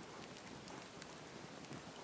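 Campfire burning: a steady soft hiss with a few faint small crackles.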